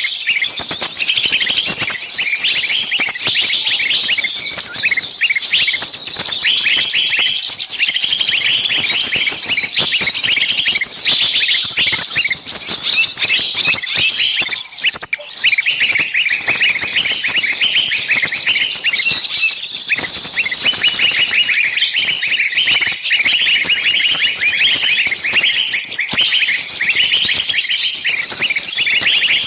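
Many small songbirds chirping and shrieking at once in a dense, unbroken racket of fast high chirps and trills, with one brief lull about halfway. It is the frantic, screaming small-bird chorus played as a lure to draw other small birds in.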